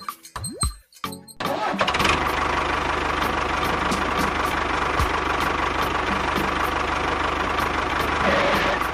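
An engine running steadily. It cuts in about a second and a half in and stops near the end, with a steady beat of background music underneath.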